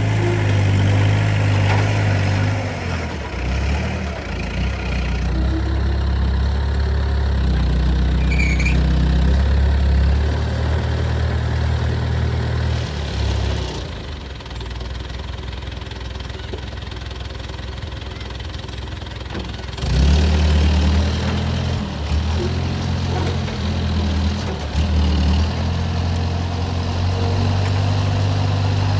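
Heavy diesel engine of a crane running and changing speed in steps as it works. It is quieter for several seconds in the middle, then returns to full volume suddenly.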